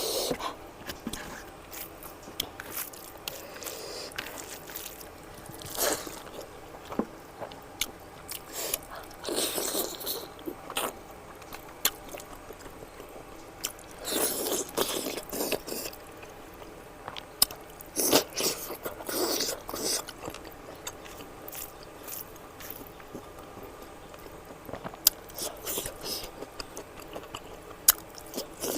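Close-up eating sounds of a person chewing and biting fatty mutton curry: wet chewing, lip smacks and crunches in irregular bursts with short quieter gaps.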